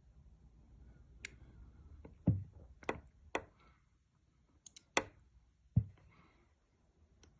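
About eight irregular, sharp clicks and knocks over a faint low background hum, the loudest a little over two seconds in and around five and six seconds in.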